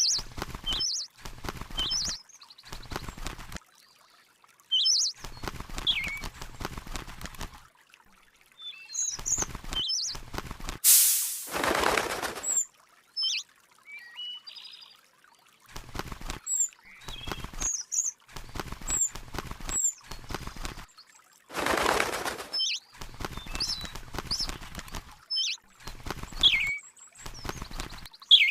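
A small bird giving short, sharp chirps, scattered irregularly, with bouts of rustling and wing-flapping noise. Two longer, louder whooshing flurries come about a third of the way in and again about three quarters of the way through.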